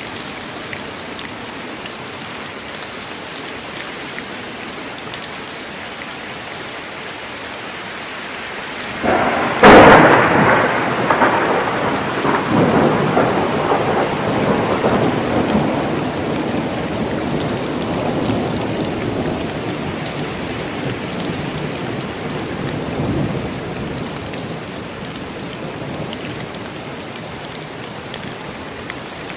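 Steady rain falling in a forest, with a sharp clap of thunder about nine seconds in that rolls on as a long rumble, slowly dying away over the following fifteen seconds.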